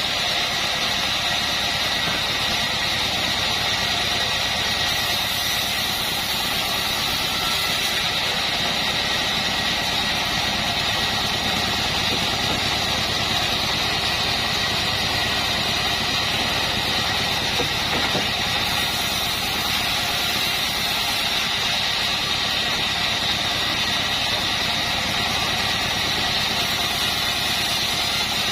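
Assembled bandsaw mill running steadily: a continuous mechanical drone with a steady high whine over it.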